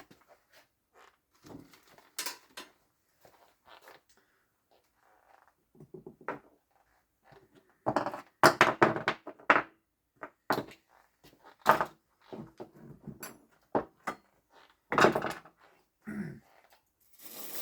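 Small metal and plastic parts of a robotic mower's wheel-motor gearbox being handled: scattered clicks and knocks, with a busy cluster of them about eight to ten seconds in.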